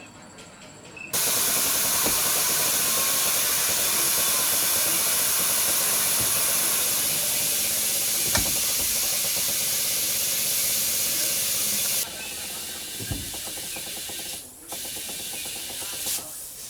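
A loud, steady spraying hiss starts suddenly about a second in, drops to a softer hiss about twelve seconds in, breaks off briefly, then stops just before the end.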